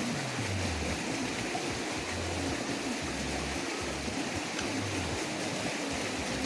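Creek water flowing steadily, with some low rumble underneath.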